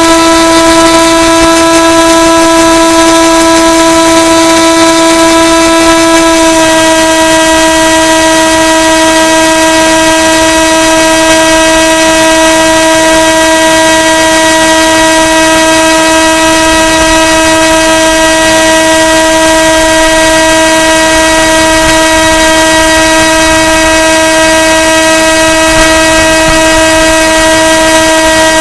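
Electric motor and propeller of an FPV model plane running at steady cruise throttle, a loud continuous droning tone whose pitch dips a little about six and a half seconds in.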